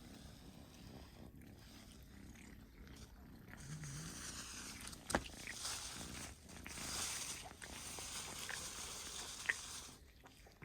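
A cat eating: noisy, hissy chewing and rustling, with two sharp clicks about five and nine and a half seconds in.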